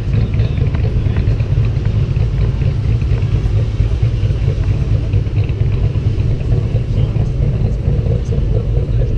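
Ford Mustangs idling close by: a steady, low engine rumble.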